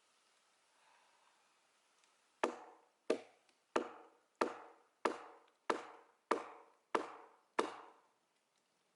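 Nine evenly paced blows of a hammer on a steel splitting wedge being driven into an oak log, about one and a half a second, starting a couple of seconds in. Each blow is sharp and rings briefly.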